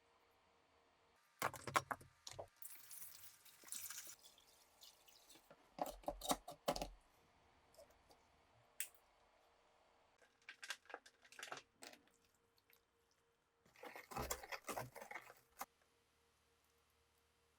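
Small clicks, taps and rattles of parts being handled, in four short bursts with quiet gaps between.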